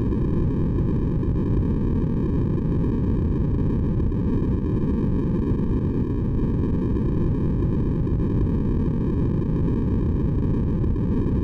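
Steady, unchanging white noise for sleep, weighted heavily to the low end: a deep rush with only a faint hiss above it.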